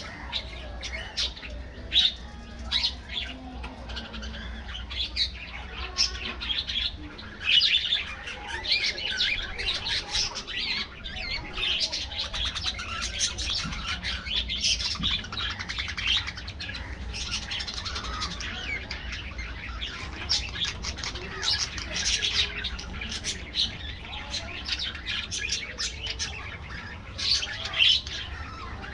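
A flock of budgerigars chirping and warbling, many short overlapping chirps with no pause.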